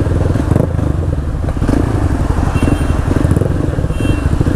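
Two motorcycles with aftermarket Akrapovic exhausts running side by side at low speed, with a steady low exhaust note. One exhaust has its dB killer fitted; the other has none.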